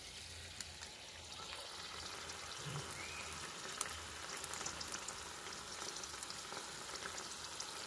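Carrots and grated tomato frying in oil in a steel pan: a soft, steady sizzle with scattered faint crackles.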